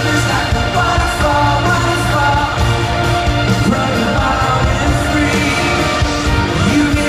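Live pop-rock band playing loud with a male lead vocal singing over it.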